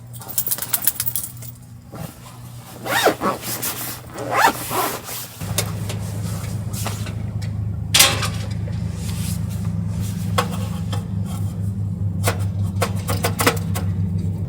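Clicks, scrapes and short rasping, zip-like sounds of something being handled. About five seconds in, a steady low mechanical hum starts and keeps running under further clicks.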